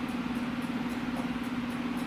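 A steady low hum, like an appliance or fan running in the room, holding one pitch.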